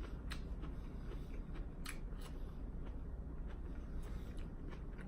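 Close-up crunching as a lettuce wrap of crisp lettuce and raw bean sprouts is chewed, with a few sharp, crisp crunches scattered through.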